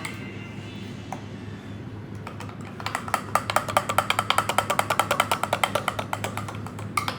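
Mayonnaise and hot water being whisked into a thin sauce in a bowl: rapid, even clicking of the utensil against the bowl, about nine strokes a second, starting a couple of seconds in. A steady low hum runs underneath.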